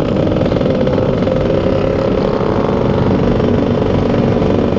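Motorcycle engine running steadily at a nearly constant pitch, with low rumbling noise underneath.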